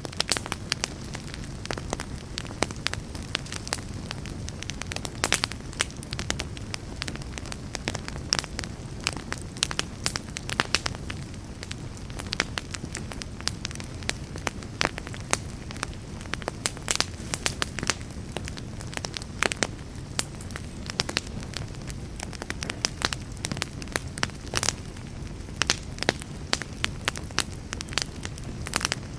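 Campfire burning, with a steady low rush of flames and frequent sharp crackles and pops scattered throughout.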